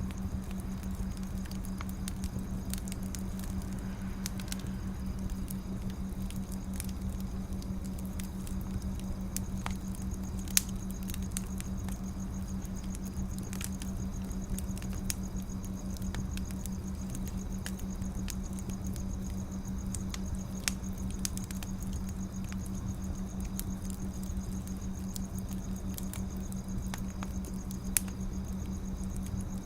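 Burning firewood crackling with scattered small snaps and a few louder pops, over a steady low hum.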